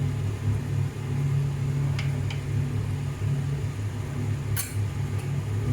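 Steady low hum from a kitchen appliance, with two faint clicks about two seconds in and a sharper clink a little after four and a half seconds.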